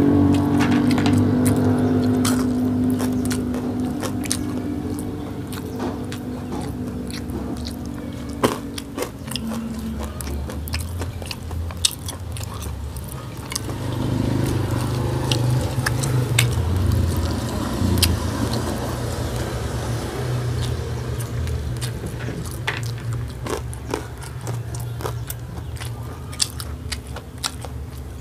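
Close-miked chewing and biting of a man eating rice and cooked conch by hand, with many small sharp clicks and crunches. A vehicle engine drone is loudest at the start and fades away over the first ten seconds.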